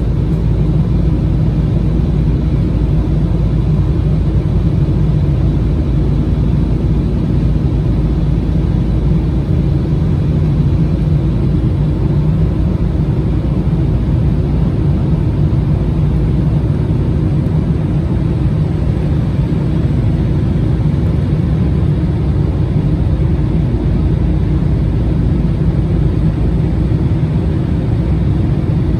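Steady low rumble of an Embraer regional jet's turbofan engines and rushing air, heard from inside the passenger cabin in flight.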